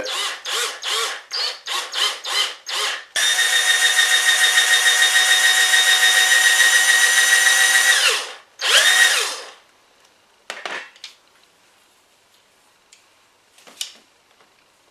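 Small electric drill with a 4.5 mm bit drilling off the head of a rivet on a die-cast Dinky Toys model: a string of short trigger bursts for about three seconds, then a steady run of about five seconds with a high whine that winds down, and one more short burst. A few light clicks near the end.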